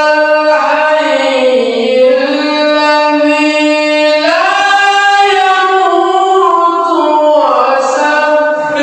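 Quran recitation in the melodic tilawah style by a male qari: one voice holding long ornamented notes. The pitch slides down about two seconds in, rises again a little past four seconds, then steps down near the end.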